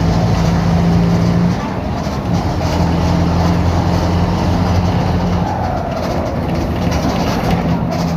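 Diesel engine of a Mercedes-Benz OF-1721 BlueTec 5 bus running with a holed exhaust, a steady low note that drops a little in pitch and loudness about a second and a half in.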